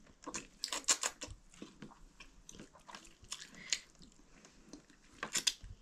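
Close-up chewing and biting on chicken on the bone, with irregular crunchy clicks, the sharpest about a second in and near the end.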